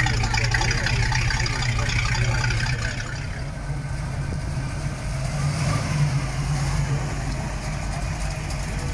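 A car engine idling steadily, with a murmur of voices over it for the first three seconds.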